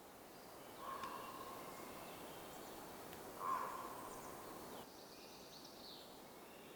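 Forest ambience: a steady background hiss with two bird calls, one about a second in and a louder one about three and a half seconds in, and faint chirps later.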